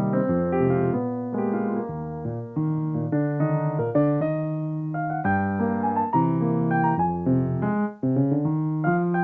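Solo piano playing a gentle, flowing accompaniment of chords and melody notes, with the notes changing about every half second.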